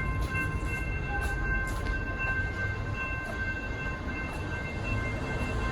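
Level crossing warning bell ringing steadily as the crossing activates, its fixed bell tones held over a low rumble.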